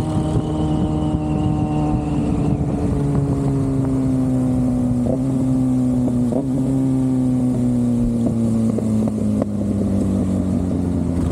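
Motorcycle engine running at a steady cruise, its pitch sinking slowly as the bike eases off, over low wind rumble.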